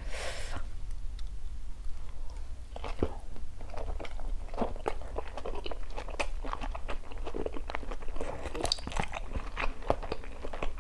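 Close-miked chewing of a mouthful of pan-seared scallop: a soft bite right at the start, then wet mouth clicks and smacks at an uneven pace.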